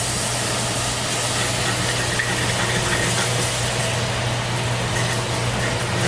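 Garlic sizzling and crackling in hot oil with annatto powder over low heat, over a steady low hum.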